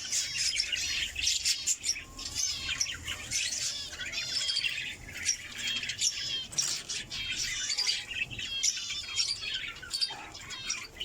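A flock of pet budgerigars and cockatiels chattering and chirping without pause: a dense, rapid warble of high chirps with occasional squawks.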